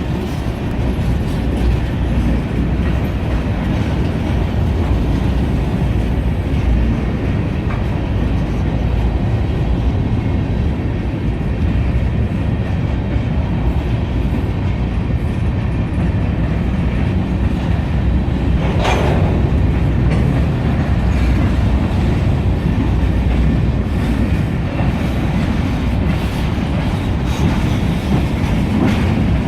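Freight train of mixed and double-stack container cars rolling past in a steady heavy rumble, with wheels clicking over the rail joints. A short, sharper sound cuts through about two-thirds of the way in.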